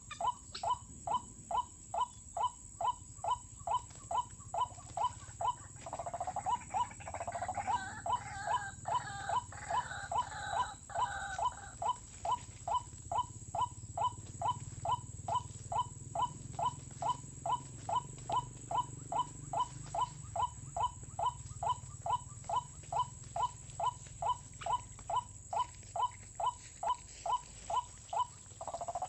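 White-breasted waterhen call repeated at an even pace, about two and a half short notes a second, the kind of steady calling used to lure waterhens to snares. From about six to twelve seconds in, a second, more varied calling overlaps it.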